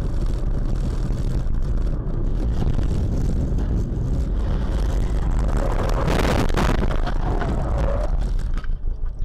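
Dash-cam recording of a vehicle on the road: a steady, loud low rumble of engine, tyre and wind noise, with a louder noisy surge about five and a half seconds in that lasts around a second.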